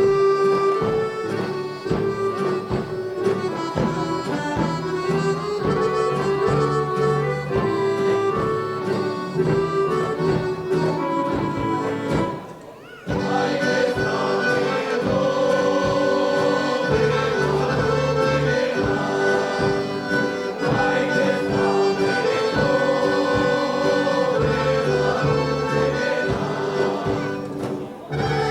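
Accordion playing Serbian traditional folk music, stopping briefly about twelve seconds in and then starting again.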